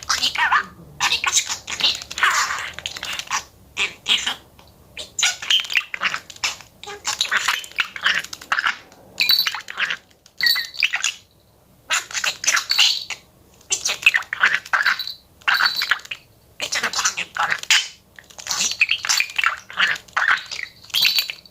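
Pet budgerigar chattering and warbling in short, rapid bursts with brief pauses, its high, speech-like mimicked phrases close to the microphone.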